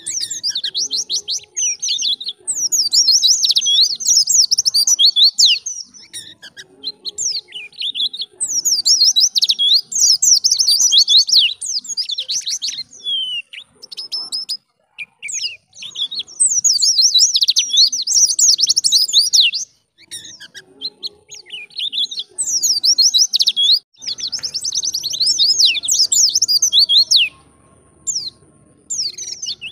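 White-eye (pleci) singing a fast, high twittering song in repeated phrases a few seconds long, with short breaks between them.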